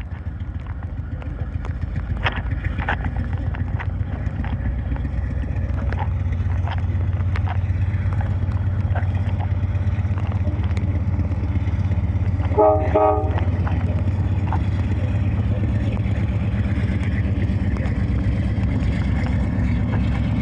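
Diesel freight locomotive running with a steady, pulsing low rumble that grows louder as it approaches, with scattered clicks. About two-thirds of the way through, its multi-chime horn gives a short double toot.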